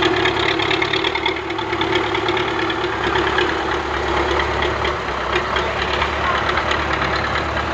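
Tractor engine running steadily with a rapid, even clatter.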